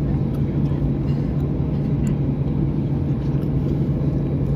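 Steady cabin hum inside an Airbus A320: an even low rumble with a constant low drone, unchanging throughout.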